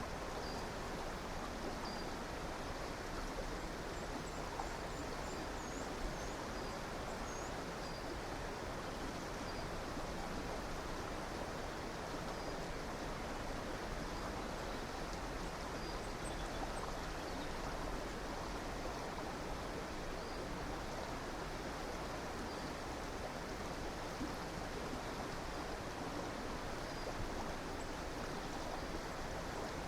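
Stream water flowing steadily, with faint short high bird chirps scattered through it and a quick run of higher chirps a few seconds in.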